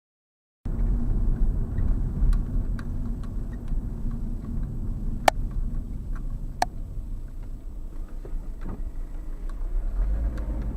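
Low, steady rumble of a moving vehicle's engine and road noise, cutting in abruptly about a second in. Two sharp clicks sound around the middle, with a few faint ticks.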